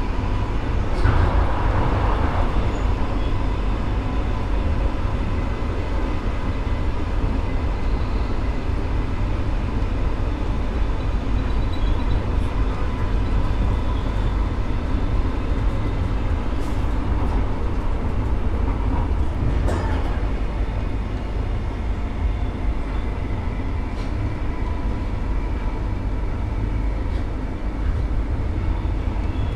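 Steady low rumble of a moving vehicle, with a few faint clicks and knocks, one about two thirds of the way through.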